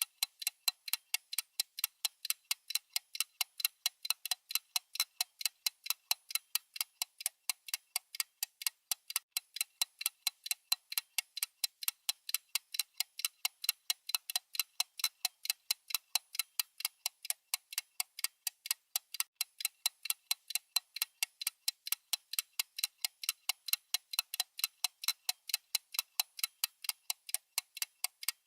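Clock ticking sound effect: a steady, even run of crisp ticks, about four a second.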